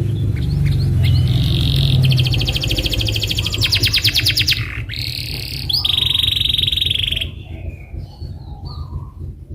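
Domestic canary singing a series of fast rolling trills, one after another for about six seconds, then breaking into scattered short chirps near the end, over a steady low rumble.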